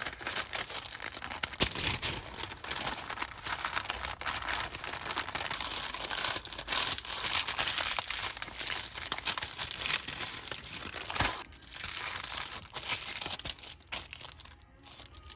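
Crinkly packaging being handled and crumpled: a continuous dense crackling and rustling, with a brief pause a little past the middle and thinning out near the end.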